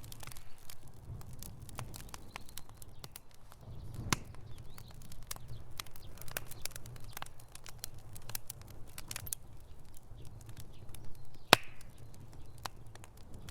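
Wood fire in a fireplace crackling: irregular sharp pops and snaps over a low steady rumble of the flames, with one loud pop about three-quarters of the way through.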